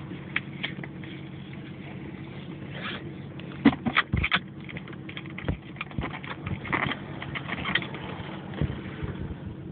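Toyota Soarer's engine idling steadily, heard from inside the cabin. A cluster of sharp knocks and clicks comes about four seconds in, with scattered smaller clicks after.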